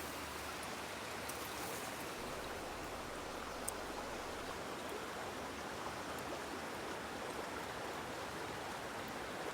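Woodland river flowing: a steady, even rush of running water.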